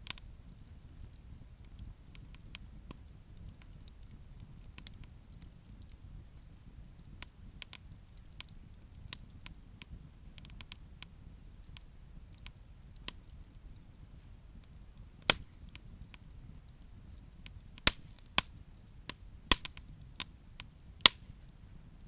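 Wood fire crackling, with scattered sharp pops that come louder and closer together in the second half, over a low steady rumble.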